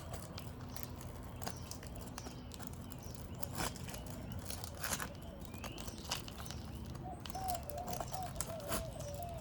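Asphalt shingles being worked loose by hand to release their seal strips: scattered scrapes and sharp clicks. A bird calls repeatedly near the end.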